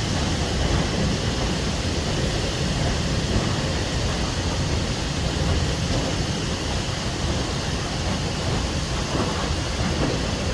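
A train running, heard as a steady low rumble with a rushing hiss over it.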